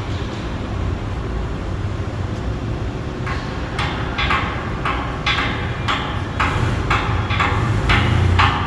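A hammer striking steel plow parts about twice a second, with short metallic rings, starting about three seconds in. A steady low engine hum runs underneath.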